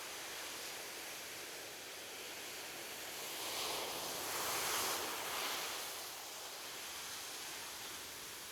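Ocean surf on a beach: a steady wash of waves, with one wave swelling to its loudest about five seconds in and then falling away.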